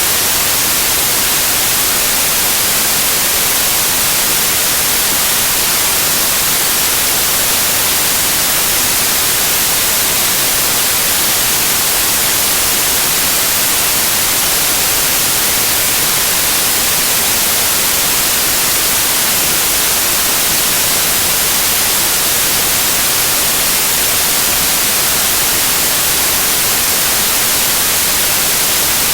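Loud, steady white noise: an even hiss with no changes or events, most of its energy in the high range.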